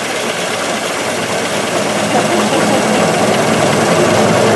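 Ford Model T's four-cylinder engine running as the car drives along, growing a little louder about two seconds in.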